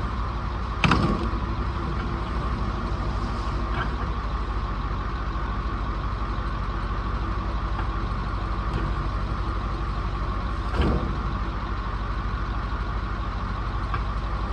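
A vehicle engine running steadily at a constant speed, with a sharp knock about a second in and another near eleven seconds.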